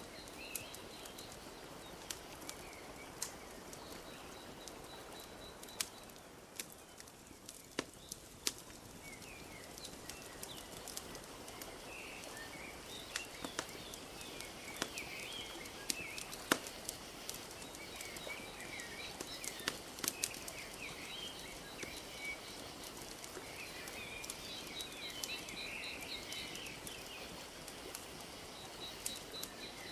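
Wood fire crackling with scattered sharp pops over a soft, steady wash of lapping lake water, while small birds chirp and twitter, busier in the second half.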